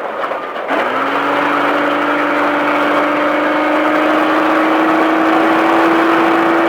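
Baja race truck's engine pulling under steady throttle, its pitch climbing slowly and evenly as the truck gains speed, starting about a second in.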